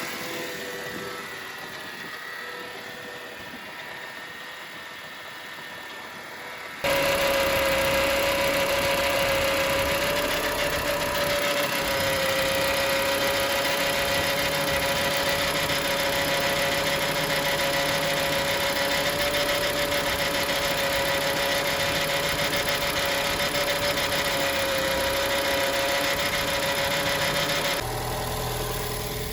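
Car engine idling with a steady bearing whine, which gets suddenly louder about seven seconds in. The owner traces the noise to a worn water pump bearing.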